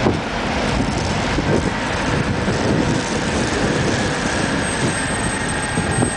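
TGV high-speed train running slowly through the station, a steady rumble, with heavy wind buffeting on the microphone.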